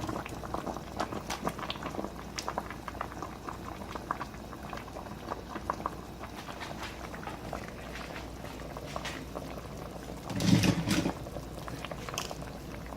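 Pot of kaeng som (Thai sour curry broth with vegetables) bubbling on the stove, with many small irregular pops. About ten seconds in, a brief louder sound stands out.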